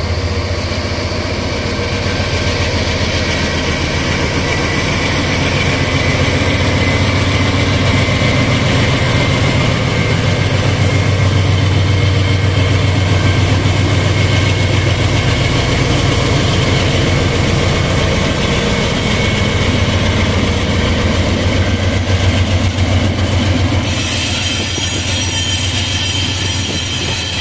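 Six-axle diesel-electric freight locomotive passing close at low speed with its engine running in a steady low drone, over the rolling of the container wagons' wheels on the rails. A thin, high wheel squeal runs through the middle.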